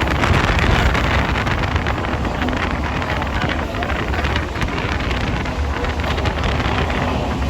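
Steady rumble of a moving train with wind buffeting the microphone.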